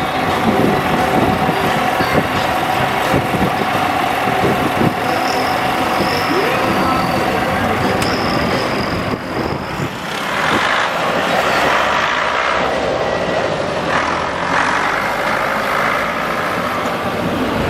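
Diesel engines of tractors and lorries running, with a steady mechanical drone throughout.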